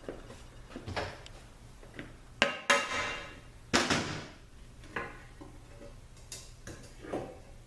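Metal transmission parts and hand tools clinking and clanking during the teardown of an automatic transmission. There are about eight separate knocks, the loudest with a short metallic ring about two and a half seconds in.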